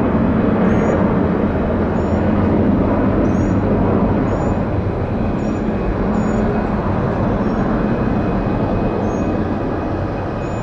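Jet airliner's engines running loud and steady as the aircraft passes on the runway, a dense, even rumble. A faint high chirp repeats about once a second above it.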